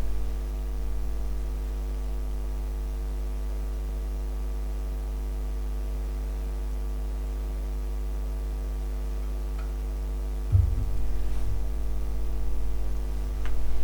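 Steady electrical mains hum with a stack of even overtones, with a few low thumps about ten seconds in and a short click near the end.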